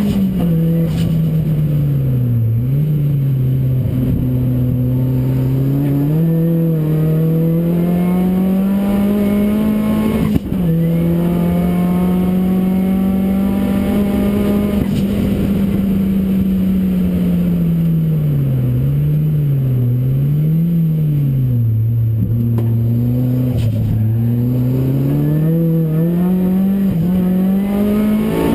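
Ford Racing Puma's modified Ford Focus RS engine under hard track driving, its revs climbing and falling repeatedly through corners and gear changes, with a sharp break about ten seconds in.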